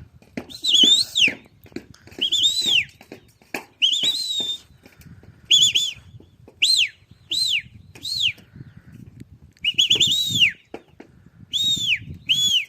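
A bird calling over and over: short, high, arched whistles, some opening with a quick trill, about one every second. A low rumble with scattered knocks lies underneath.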